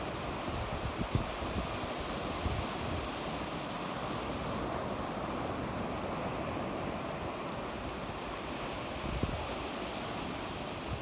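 Sea waves washing steadily onto the shore, with a few brief low gusts of wind on the microphone.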